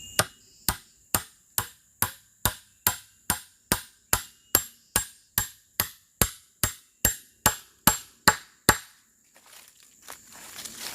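A hand tool striking bamboo about twenty times in an even rhythm of roughly two blows a second. The blows stop shortly before the end.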